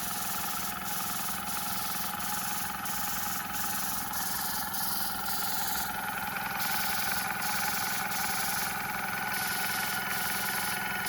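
Small airbrush compressor running with a steady hum, while air hisses from the spray gun in repeated spells that break off briefly, with two longer pauses near the middle and toward the end.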